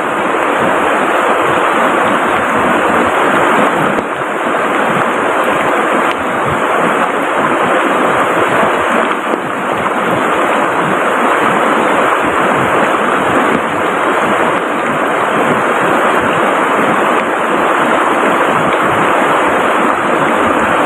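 Loud, steady rush of water from heavy rain and the river, without a break.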